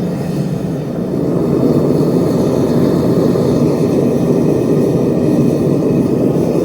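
Metal-melting furnace burner running with a loud, steady rushing noise that swells slightly about a second and a half in.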